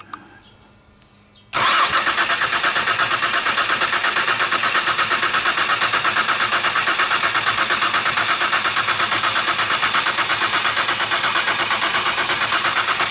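2005 Ford Escape engine cranking on its starter without catching, a fast even pulsing that begins abruptly about a second and a half in and cuts off near the end after about eleven seconds: the crank-okay, no-start fault.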